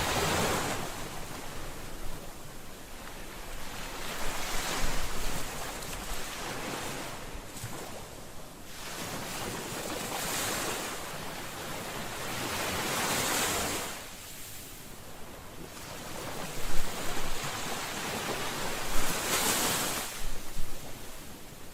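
Ocean waves breaking on a shore, the surf rising and falling in swells every few seconds, with some wind buffeting the microphone.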